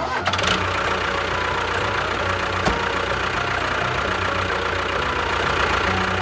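Engine running steadily, with a single sharp click a little under three seconds in.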